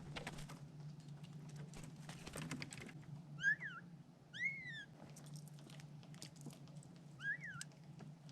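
Three short animal calls, each rising and then falling in pitch, the first two about a second apart and the third near the end, over a scatter of light clicks and ticks.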